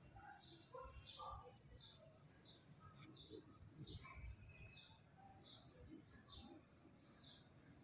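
Birdsong: a small bird repeating the same short, high, falling chirp about one and a half times a second, with scattered softer, lower bird calls in between. Faint.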